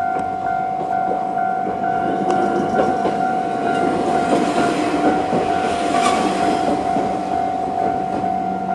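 A Choshi Electric Railway 2000-series train running over a level crossing, its wheels clattering on the rails and loudest about four to six seconds in. Beneath it, the crossing's electronic warning bell rings at a steady pitch.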